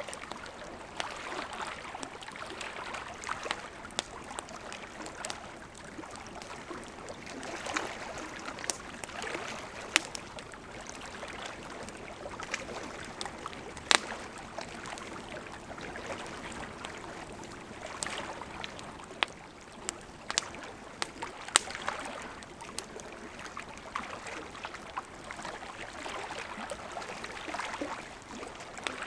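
Wood campfire burning, a steady soft hiss of flames with frequent irregular crackles and a few sharper, louder pops.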